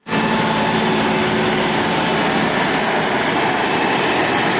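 Tractor diesel engine running steadily, starting abruptly and holding an even level.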